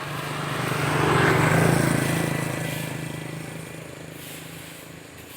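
A truck engine running as the truck drives past, growing louder to a peak about a second and a half in, then slowly fading away.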